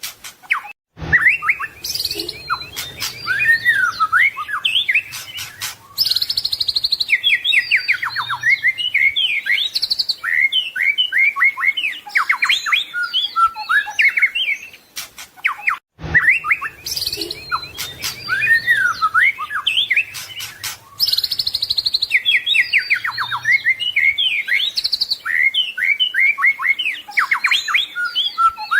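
White-rumped shama (murai batu) singing a long, varied song full of quick whistles, trills and rattles, the mimicked 'isian' phrases of a masteran training recording. After a brief break about halfway through, the same stretch of song repeats as the recording loops.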